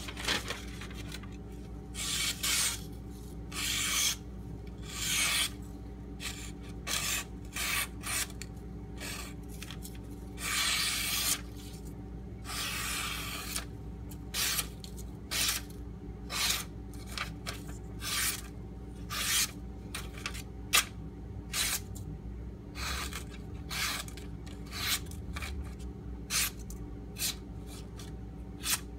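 Freshly sharpened AUS-8A tanto knife edge slicing paper in a sharpness test, a run of hissing cuts, some drawn out for about a second, most short and quick.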